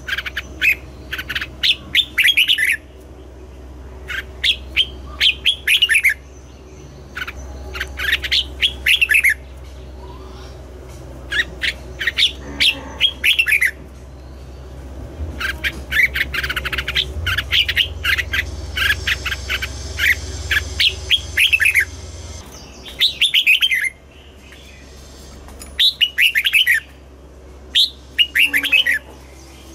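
Red-whiskered bulbul singing: short phrases of quick, warbled notes, repeated every second or two with brief pauses between them.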